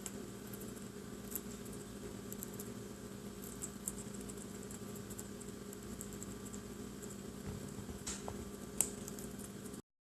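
Scattered light clicks and taps over a steady low electrical hum, with one sharper click near the end, then the sound cuts off abruptly to silence.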